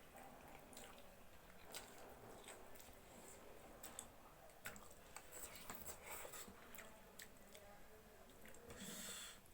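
Quiet chewing and wet mouth clicks of people eating instant noodles, irregular throughout, with a brief louder hiss of breath or slurp near the end.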